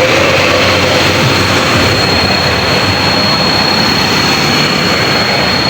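Heavy truck engine running loud and steady on a climb, a dense roar. A thin, high, steady whine comes in about two seconds in and holds.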